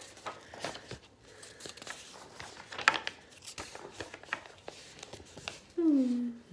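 Paper rustling and light clicks of a picture book being handled, its pages turning, with one sharper click about three seconds in. A voice comes back in near the end.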